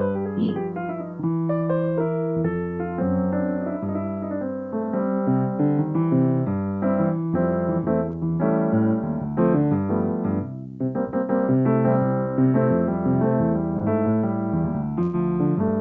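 Piano playing a flowing melody over chords, with a brief break in the notes about ten and a half seconds in.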